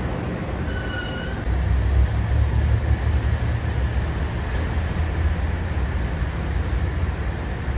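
JR Shikoku 1500 series diesel railcar running, a steady low rumble of engine and wheels on rail, with a faint brief squeal about a second in.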